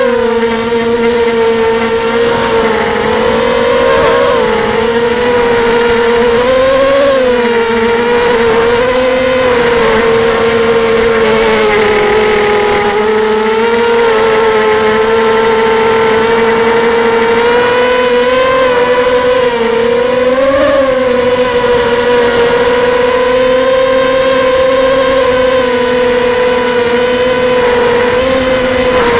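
Blackout 250 mini quadcopter's motors and propellers whining in flight. The whine is steady, with its pitch rising briefly a few times as the throttle changes. The owner says it sounds like at least one motor is on its way out.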